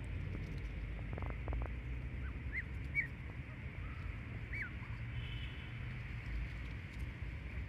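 A few short, faint bird chirps over a steady low rumble of wind or distant traffic, with a brief cluster of soft pulses just after a second in.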